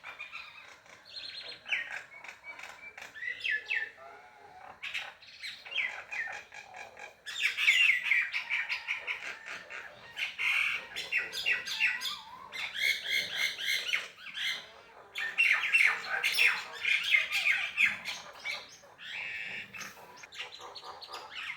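Birds squawking and chirping in rapid, harsh runs of calls, loud in spells with short lulls between: the agitated calling of birds fighting.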